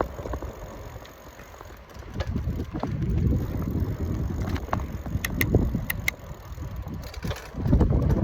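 Wind buffeting the microphone while riding a Trek FX1 hybrid bicycle, a rumble that swells about two seconds in and again near the end, with a few sharp clicks from the bike in the middle.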